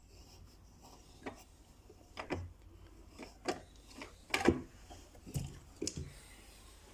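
Irregular light knocks and clicks of a small wooden birdhouse and its parts being handled, about a dozen in all, the loudest about four and a half seconds in.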